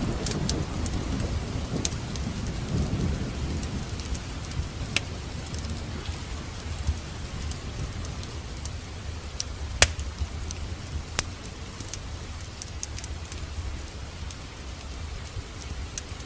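Steady rain with the tail of a thunder rumble fading away over the first few seconds. A few sharp, scattered pops from a crackling fireplace come through the rain.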